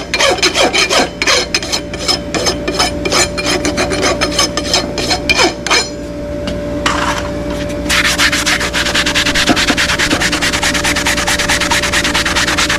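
Rasp filing a hoof in regular back-and-forth strokes, about three a second. It pauses about six seconds in, then resumes with faster, denser strokes.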